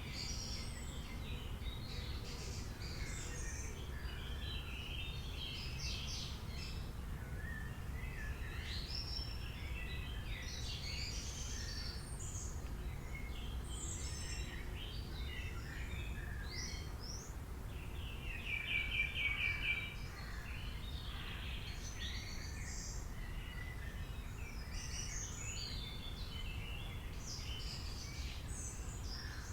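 Several wild birds calling and singing at once, with short chirps and phrases overlapping throughout. About eighteen seconds in comes a fast trill of evenly repeated notes, the loudest moment. A steady low rumble runs underneath.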